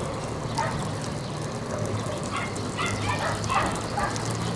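A dog barking several times in short calls, over a steady low hum.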